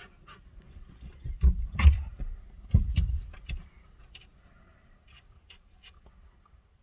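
A metallic jangling with a rapid cluster of clicks and knocks over a low rumble, loudest about a second and a half in and fading out before the four-second mark, then only faint ticks.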